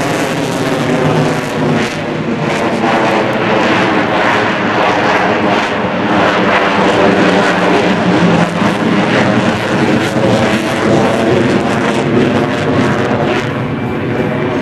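Grumman F-14 Tomcat's twin jet engines, loud and steady, as the jet flies a slow roll with its landing gear and flaps extended.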